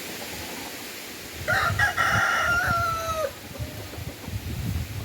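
A rooster crows once, a call of nearly two seconds ending in a long held note that falls slightly at the end. Wind buffets the microphone beneath it.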